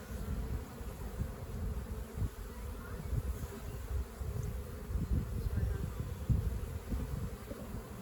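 Honeybees buzzing in a steady hum around frames being moved from a swarm trap, over irregular low rumbling and bumps.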